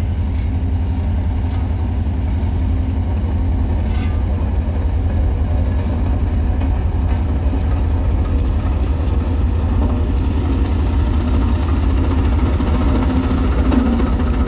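Caterpillar wheel loader's diesel engine running steadily with a low drone, growing a little louder near the end.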